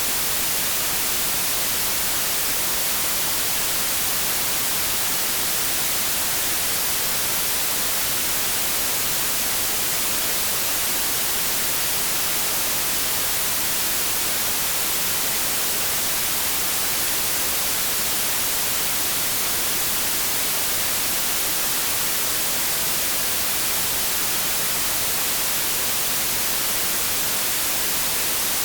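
Continuous white noise: a steady, even hiss, strongest in the treble, with no change in level or pattern.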